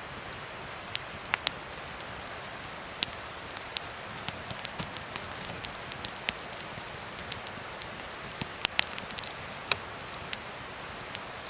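Wood fire crackling: a steady hiss with irregular sharp pops and snaps, a few of them louder.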